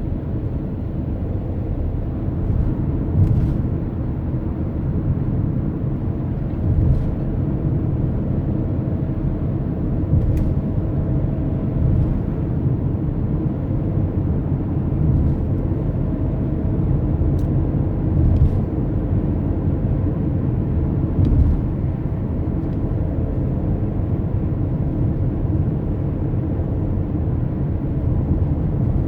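Steady low rumble of a car on the move: road and engine noise, with a few faint short ticks scattered through it.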